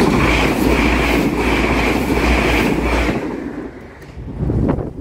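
Transport for Wales Class 197 diesel multiple unit running through a level crossing, its wheels clattering over the rail joints, dying away about three seconds in as the train clears. There is a brief rush of noise near the end.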